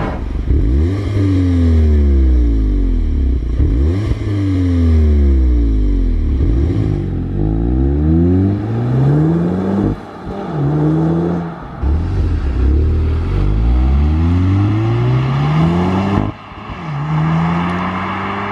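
Audi S1's 2.0-litre turbocharged four-cylinder on its stock exhaust, revving and accelerating hard. The pitch climbs and then drops again and again, across several short clips.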